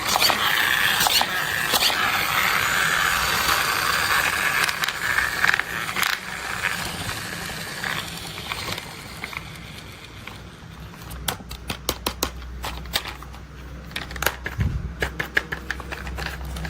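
Toy construction vehicles being handled and played with: several seconds of scraping and crunching, then, from about halfway, a run of sharp clicks and taps over a low hum.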